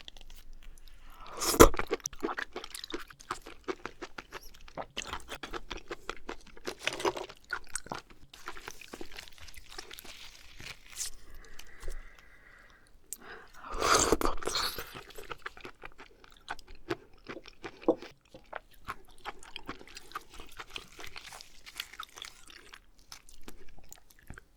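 Close-miked eating of oysters: wet chewing and small mouth clicks, with two louder bursts of eating noise, one about a second and a half in and one about fourteen seconds in.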